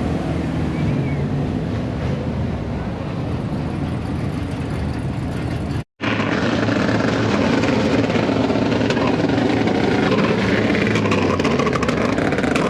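Vehicle engines running in a continuous rumble. A split-second gap of silence comes about six seconds in, after which the rumble resumes slightly louder and busier.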